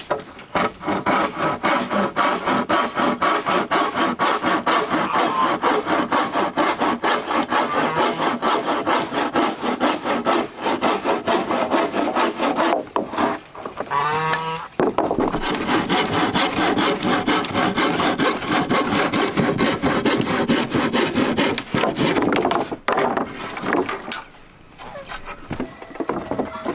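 Hand saw cutting through wood in rapid back-and-forth strokes, pausing briefly about halfway and stopping a few seconds before the end.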